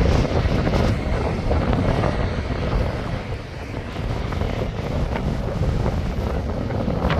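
Wind buffeting the microphone in gusts, with surf breaking on the beach underneath.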